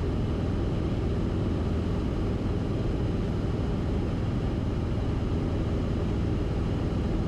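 Steady drone of a Cessna 172RG's engine and propeller in flight, heard inside the cockpit, a constant low rumble with no change in pitch or level.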